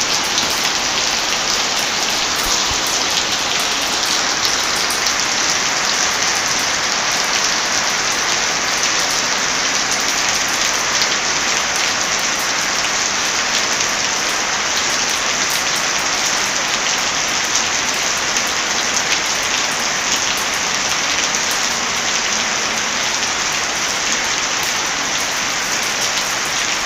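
Heavy rain falling steadily, a dense even hiss, with many small scattered clicks, which fit the pops of a crackling wood fire mixed in.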